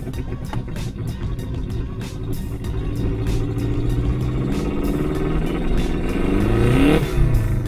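Subaru Legacy's twin-turbocharged boxer engine pulling the car along, heard inside the cabin. The engine note climbs in pitch from about five seconds in, then drops sharply near the end.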